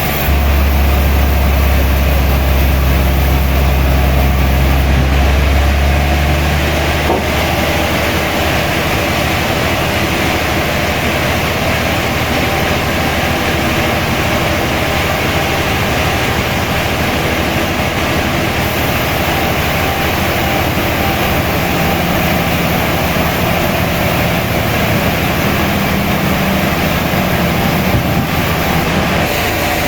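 Sawmill machinery running with a loud, steady noise. A strong low engine hum drops away about six seconds in, and the steady noise carries on.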